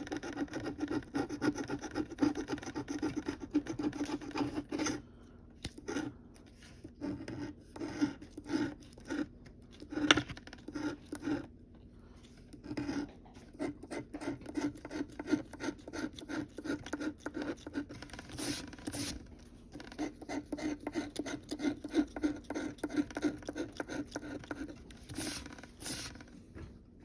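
Scratch-off lottery ticket being scratched: rapid rasping strokes, with a couple of short pauses.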